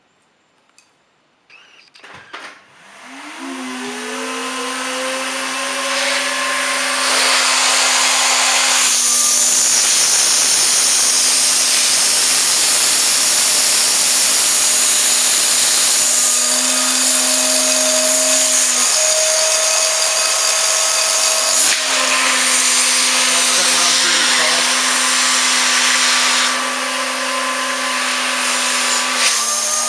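Vacuum cleaner switched on about two seconds in. Its motor rises in pitch as it spins up, then runs steadily, drawing air through a homemade cardboard turbine motor. The hum shifts in pitch and level a few times.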